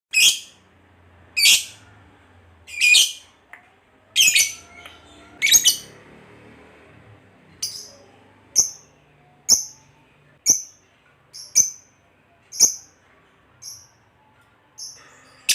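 Lovebird giving single shrill calls about once a second. The first few are longer, and from about halfway through they are short, sharp chirps.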